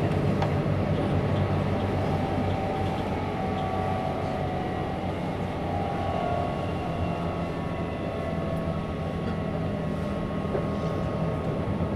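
Keihan 8000-series limited-express electric train running steadily, heard from inside the passenger car: a continuous low rumble of wheels and running gear with faint steady whining tones above it.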